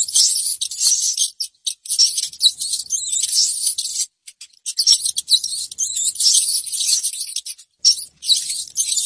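Several rats squeaking, a rapid high-pitched chittering that runs almost without a break and pauses briefly a few times.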